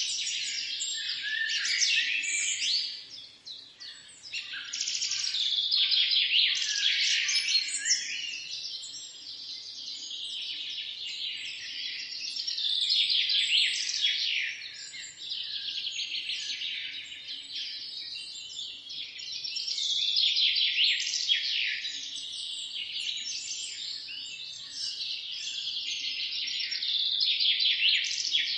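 A chorus of many small birds chirping and twittering at once, quick overlapping calls that swell and ease every several seconds, with a brief lull about three seconds in.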